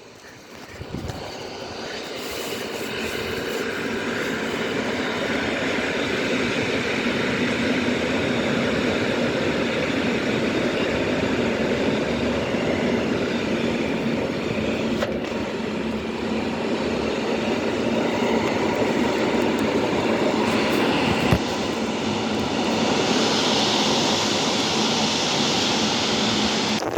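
A train running past on the rails: a steady rumble and clatter of wheels that builds over the first few seconds and then holds. A brighter hiss joins near the end.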